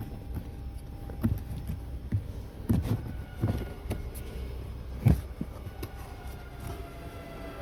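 Irregular plastic knocks and clicks as the cabin air filter housing behind the car's dashboard is handled and the filter pulled out, the loudest knock about five seconds in, over a steady low hum.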